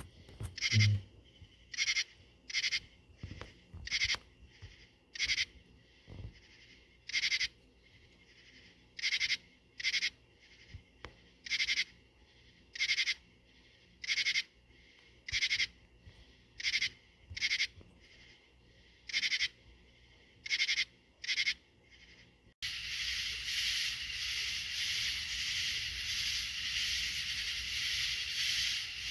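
A small creature chirping: short rasping chirps, repeating irregularly about once a second. About 22 seconds in they cut off suddenly to a steady hiss.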